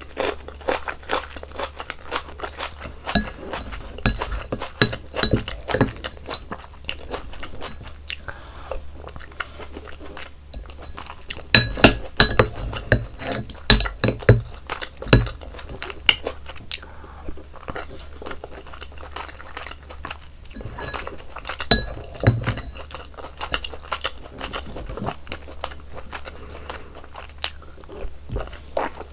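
Close-miked eating sounds: a person chewing and crunching food with many small wet clicks, and louder crunchy bites about twelve seconds in and again about twenty-two seconds in.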